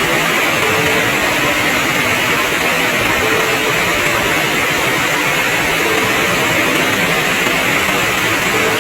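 Heavy rain falling, a dense, steady hiss without a break.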